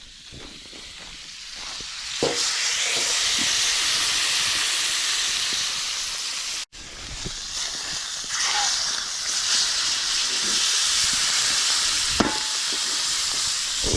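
Flat iron steaks searing in a hot pan: a steady high sizzle that swells about two seconds in, with a couple of short knocks.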